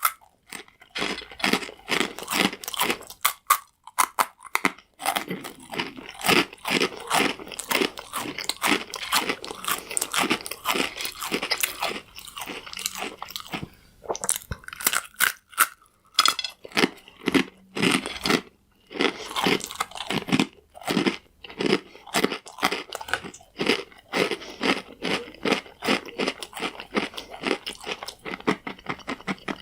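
Close-up chewing of crunchy croutons: rapid, dense crackling crunches, with a few short pauses between mouthfuls.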